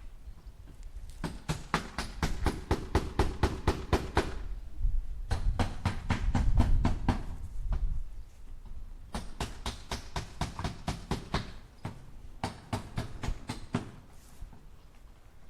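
Hammer striking nails into wood in four quick runs of light blows, about five or six a second, with short pauses between runs. The second run has a heavier, deeper thud beneath it.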